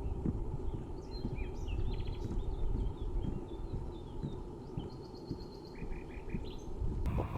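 Small songbirds chirping and trilling in quick, varied phrases over a steady wind rumble on the microphone and the irregular knocks of footsteps on a trail. Near the end the sound shifts suddenly to louder wind noise.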